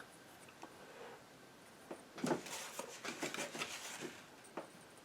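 Painting knife dabbing and scraping paint onto a canvas: a quick run of short taps and scrapes starting about two seconds in and lasting about two seconds, then a couple of single taps near the end.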